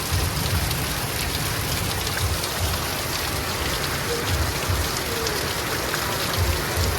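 Steady rain falling, a constant even hiss, with intermittent low rumbles on the microphone.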